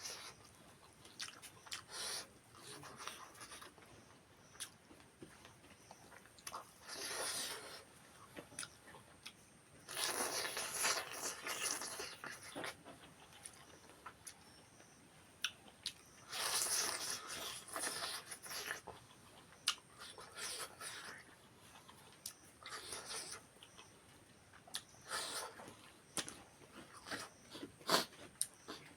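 Close-up eating sounds from a fish curry meal: chewing and mouth noises in several bouts of a second or two, with many short clicks in between.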